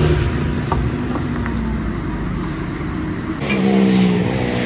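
Steady low rumble of motor vehicle engines and traffic, with a few light clicks and a short pitched sound about three and a half seconds in.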